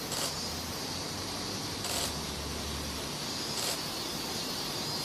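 Outdoor insect chorus: a steady high buzz, with a short rasping burst about every two seconds, with a faint low rumble in the first few seconds.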